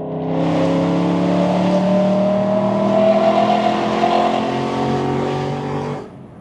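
BMW E92 M3's S65 V8 through a titanium exhaust, heard from inside the cabin, pulling under acceleration with the revs climbing slowly for about six seconds, then dropping away suddenly near the end as the throttle is lifted.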